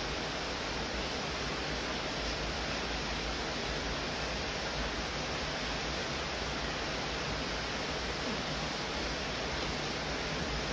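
Steady rain falling: an even hiss with no separate drops standing out.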